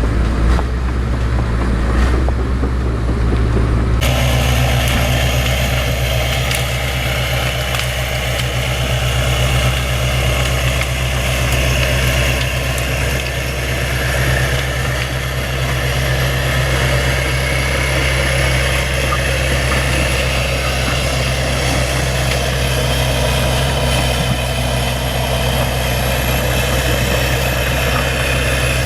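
Bulldozer's diesel engine running steadily, with an abrupt change in the sound about four seconds in.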